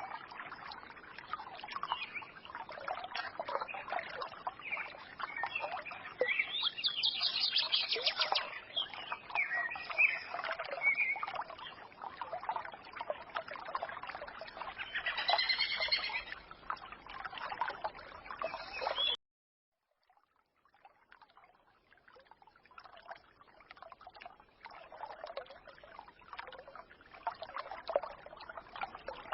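Forest stream trickling, with songbirds chirping and warbling over it. About two-thirds of the way in, the sound cuts out suddenly for about a second and comes back quieter.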